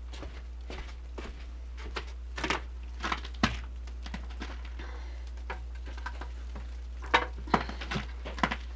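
Irregular light knocks and clatter of objects being handled, some in quick clusters, over a steady low hum.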